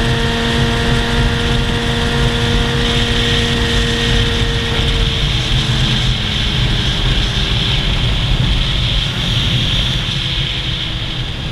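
Motorcycle engine running at a steady pitch, settling slightly lower about halfway through, over a heavy rumble of wind across the microphone.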